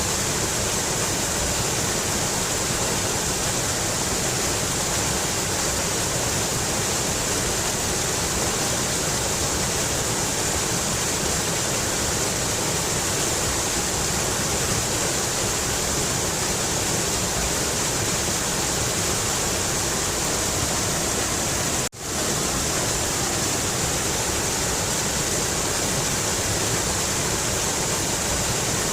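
Mountain river rushing steadily, a dense unbroken water noise. About three-quarters of the way through it drops out for a split second and comes straight back.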